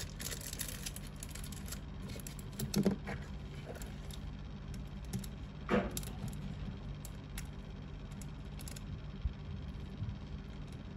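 Scattered light clicks and small taps of something being handled, with two brief louder knocks about three and six seconds in, over a steady low hum.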